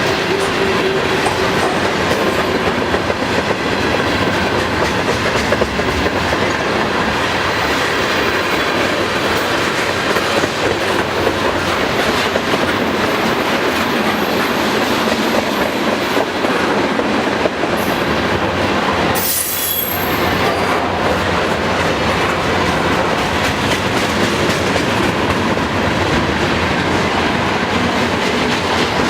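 Freight train cars rolling steadily past at close range, wheels clattering over the rail joints, with thin high wheel squeal at times.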